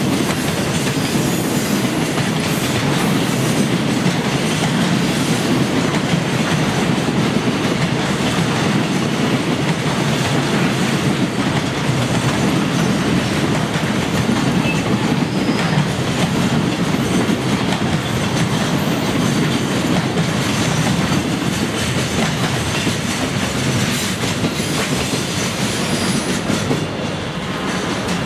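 Container flat wagons of a freight train rolling past, their wheels clattering steadily over the rail joints and pointwork. The sound eases slightly as the last wagon goes by near the end.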